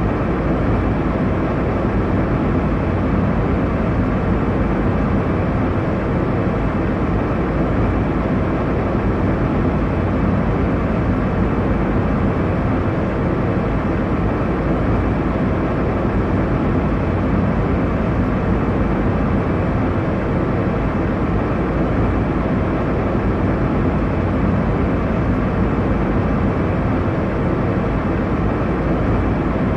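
Steady low roar of an airliner cabin in flight: engine and airflow noise, unchanging throughout.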